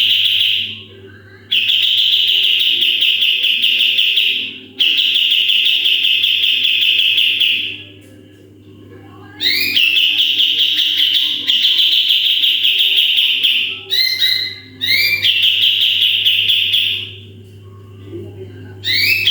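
A kapas tembak songbird singing loud, rapid-fire rattling phrases, each opening with a few rising notes and lasting a couple of seconds, repeated about six times with short pauses. A steady low hum runs underneath.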